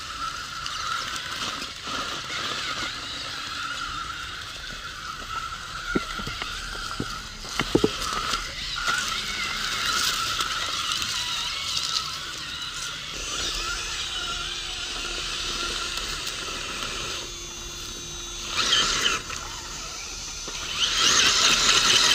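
Electric motor and gearbox of a radio-controlled crawler truck whining as it is driven, with a few sharp clicks partway through.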